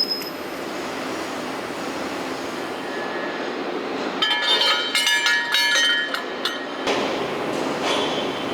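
Steady factory machinery running, with a cluster of metal parts clinking and ringing against each other from about four seconds in, lasting two to three seconds.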